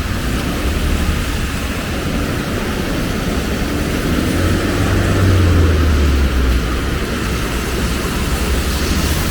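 Steady rain falling, with a low engine rumble underneath that swells and fades around the middle, like a vehicle passing by.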